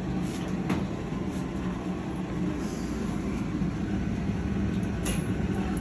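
A steady low mechanical hum, like an air conditioner or fan running in the room, with a few faint clicks.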